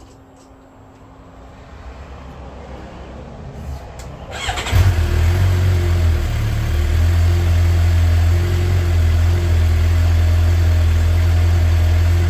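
2012 Suzuki GSX-R750's inline-four on its stock exhaust starting up: it catches suddenly about four and a half seconds in, flares briefly, then settles into a steady warm idle.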